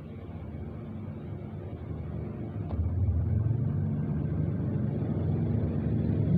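A low engine rumble, like a passing motor vehicle, that grows louder about three seconds in, with a faint click just as it swells.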